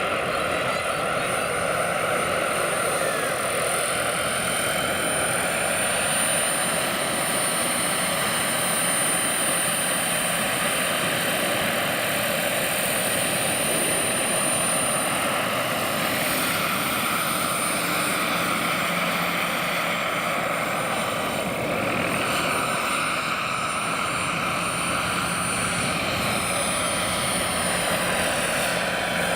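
Turbine-powered model SA 315B Lama helicopter in flight: a steady high turbine whine over the rushing noise of the rotor, shifting slightly in pitch as it moves about.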